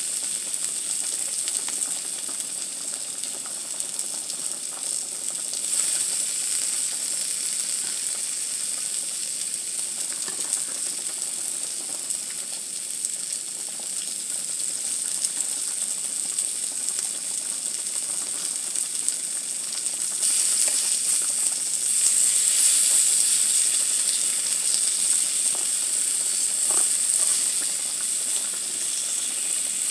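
Fish fillet, shrimp and potato slices sizzling in oil on a round grill pan: a steady frying hiss that grows louder about twenty seconds in, with a few faint taps of a fork against the pan.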